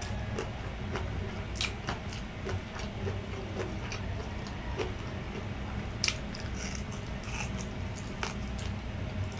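Close-up chewing and biting of grilled isaw (street-food intestine skewers), with scattered sharp wet mouth clicks, the loudest about six seconds in.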